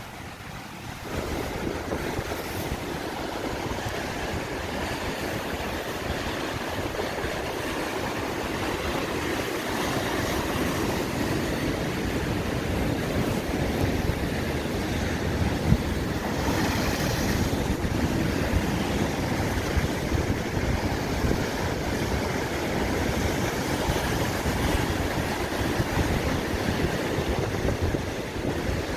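Strong wind buffeting the microphone over the rush of sea surf on the shore, a steady roar of noise that swells about a second in.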